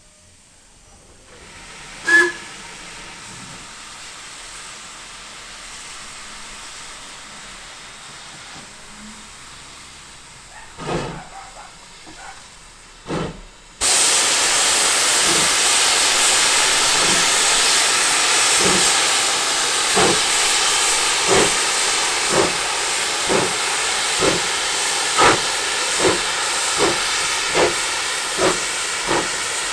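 Steam locomotive starting away: a faint hiss with a short sharp sound near the start, then a sudden loud rush of steam about halfway through, over exhaust beats that begin slowly and quicken.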